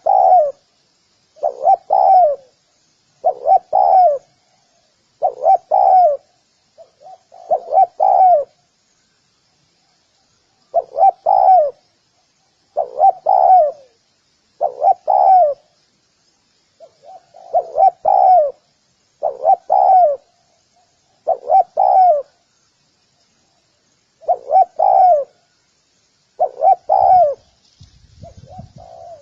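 Spotted dove cooing, repeating its short multi-note call phrase about every two seconds with a few longer pauses.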